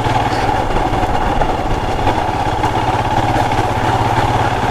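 Royal Enfield Himalayan's single-cylinder motorcycle engine running steadily at an even pitch, with no revving.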